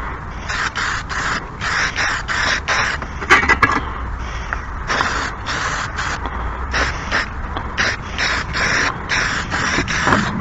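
Hand file rasping across the edge of a steel lawn mower blade in quick repeated strokes, about two or three a second, sharpening it. A couple of sharp clicks come about three and a half seconds in.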